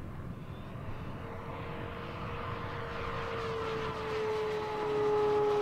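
Electric motor and propeller of a 1.5 m E-flite Fw 190A foam RC warbird in flight: a steady whine that comes in about a second in and grows louder toward the end as the plane passes, its pitch sliding slightly down. A low rumble of wind runs underneath.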